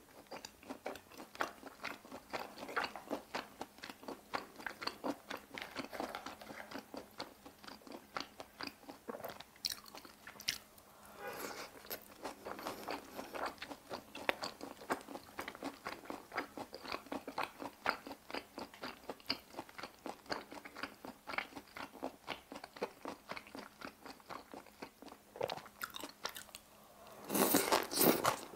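Close-miked chewing of a mouthful of boiled pork (bossam) and cabbage kimchi: a steady run of small, irregular wet crunches and mouth clicks, louder for about a second near the end.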